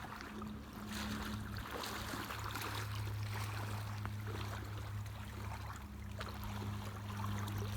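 Creek water sloshing and splashing as someone wades through it, with scattered splashes over a steady low hum.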